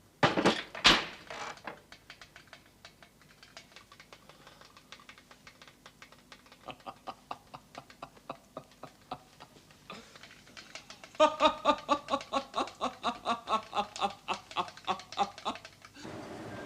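Two loud knocks, then rapid mechanical clicking that settles into a loud, even run of clicks at about four a second before stopping abruptly.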